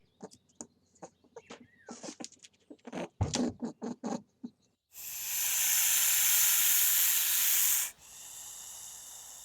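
A run of short, irregular clicks and chirps, then an animal's loud, steady hiss lasting about three seconds, falling to a fainter hiss near the end.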